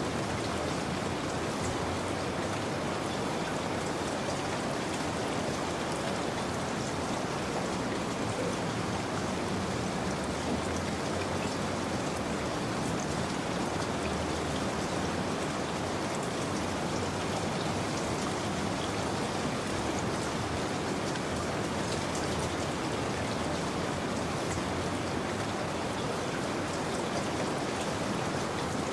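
Steady rain falling: an even hiss with scattered ticks of single drops, unchanging throughout.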